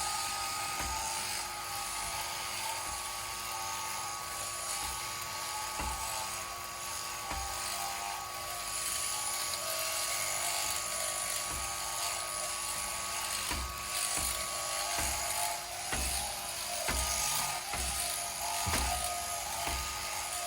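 Electric sheep-shearing handpiece running with a steady whine as a sheep is shorn, with irregular knocks and thumps.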